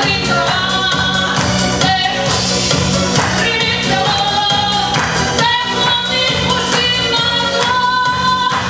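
Live song with singing over an accompaniment with a steady beat.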